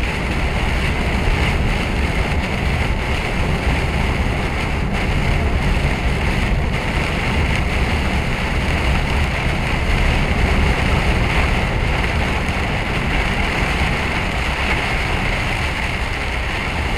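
Steady drone of a lorry driving along at speed: a low engine hum under a constant hiss of tyres and wind.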